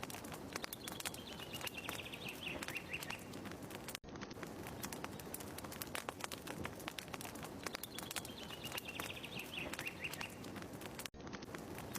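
Wood fire crackling steadily with many sharp pops, while a small bird sings a descending trill twice. The ambience drops out for a split second about four seconds in and again near the end, where the same stretch repeats.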